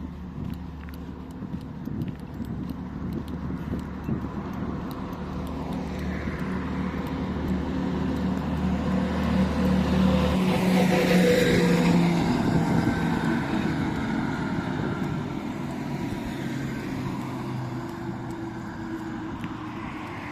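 A motor vehicle passing by: its engine grows louder to a peak a little past halfway, then fades as its pitch drops. A steady low hum underneath cuts off about halfway through.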